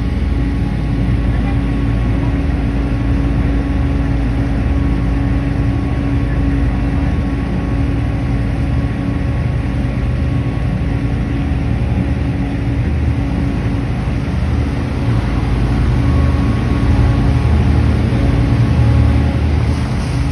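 Engine of a sightseeing river boat running steadily, a low drone with a few steady tones, heard on board. It swells a little for a few seconds near the end.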